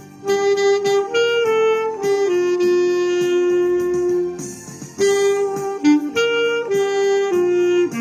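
Clarinet playing a slow song melody, holding one long note in the middle that fades away, then going on with shorter phrases.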